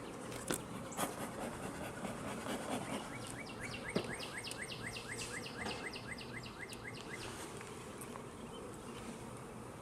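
Honey bees buzzing steadily around an opened hive, agitated by the hive being worked. A fast trill of short repeated chirps, about six a second, runs from about three to seven seconds in, with a few sharp clicks early on.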